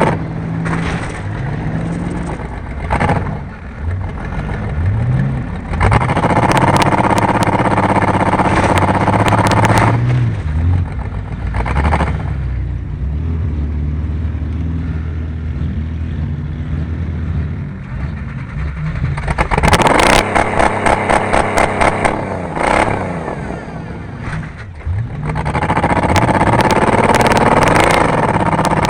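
Race car engines revving up and down at speed. A run of rapid knocks comes about twenty seconds in.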